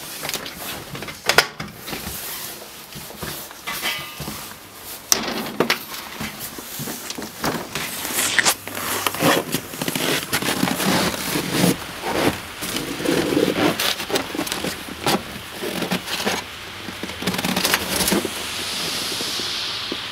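Handling and movement noises from someone taking a pot of just-boiled water out into deep frost: irregular crunches, knocks and scrapes, with a steady hiss in the last couple of seconds.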